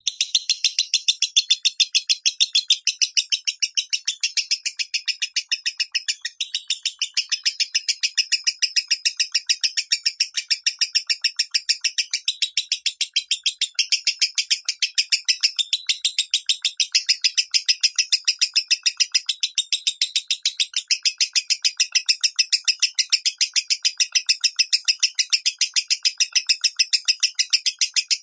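Lovebird singing the high-pitched 'minor' song: a long, unbroken run of rapid shrill chirps, several a second, starting abruptly.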